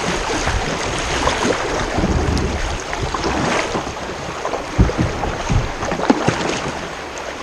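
Kayak paddle strokes splashing and water washing around a kayak in shallow river water, with a few short knocks.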